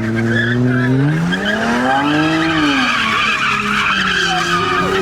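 Car engine revving up and back down under load while its tyres squeal against the pavement in a burnout. The engine's pitch climbs from about a second in, peaks near the middle, then drops back and holds.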